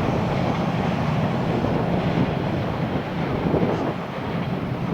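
Electric train running across a railway bridge, a steady heavy rumble mixed with wind buffeting the microphone.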